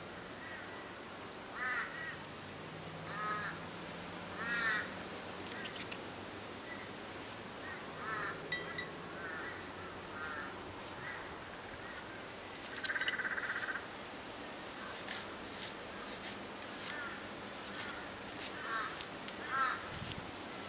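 Birds calling repeatedly: short calls every second or two, with one longer buzzy call about thirteen seconds in, and faint clicks in between.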